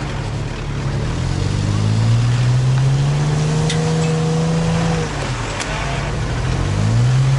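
Vehicle engines revving hard under load as they pull a boat trailer stuck down to its axles in a rut, the revs climbing, easing off about five seconds in, then climbing again near the end.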